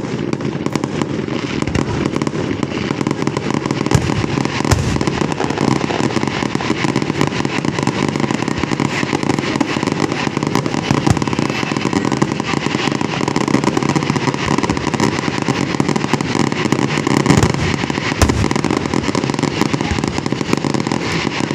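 Fireworks and firecrackers going off in a dense, unbroken crackle of rapid pops, with a few heavier bangs standing out.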